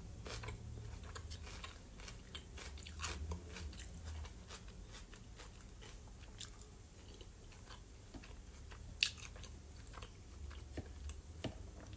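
A person chewing and biting fried potatoes close to the microphone, with soft mouth sounds and scattered small clicks. A sharper click comes about nine seconds in.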